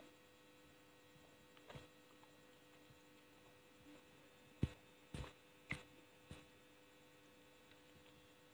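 Soft wet mouth clicks and smacks from chewing gummy candy close to the microphone: a faint click early, then a handful of sharp clicks about halfway through, over a steady electrical hum.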